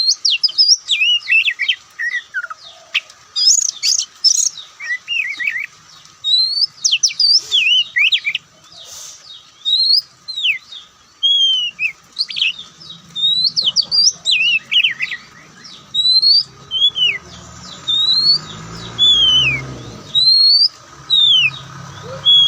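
Oriental magpie-robin (kacer) singing a varied song of loud whistled notes, many of them rising or falling sweeps, repeated in short phrases. A low rumble sounds underneath from about halfway through.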